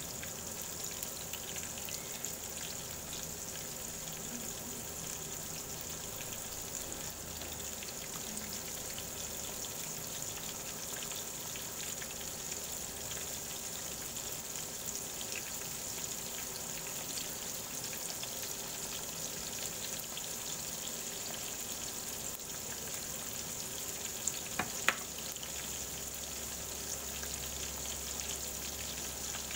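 Battered chicken strips frying in hot oil in a frying pan: a steady sizzle with fine scattered crackles. A couple of sharp clicks come near the end.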